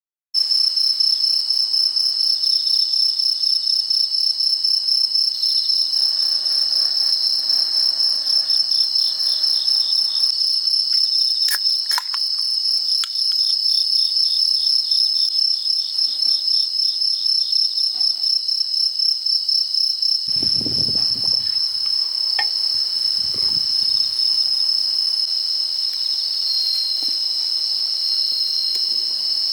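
Crickets chirping in a dense, steady, high-pitched trill, with a few sharp clicks about halfway through and some low thuds about two-thirds in.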